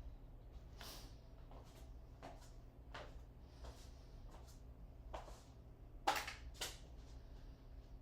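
Scattered light clicks and knocks of things being handled, over a low steady hum, with two sharper knocks about six seconds in, half a second apart.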